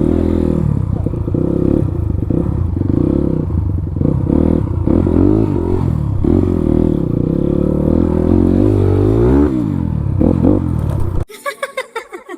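Motorcycle engine running under way on a rough road, its pitch rising and falling with the throttle and a glide upward shortly before it cuts off suddenly about a second before the end. A few short separate bursts follow.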